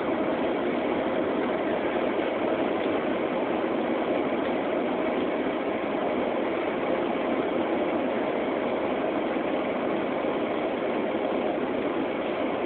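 Airliner cabin noise: the engines and the rush of air over the fuselage make an even, unbroken drone.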